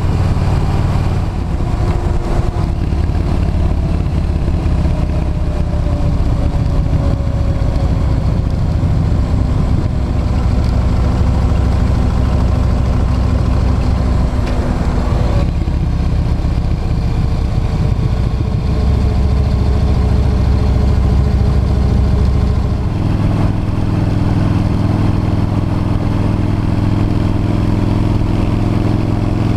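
V-twin cruiser motorcycle engine running steadily on the road, its note stepping to a new pitch abruptly a few times as the rider shifts gear or changes throttle.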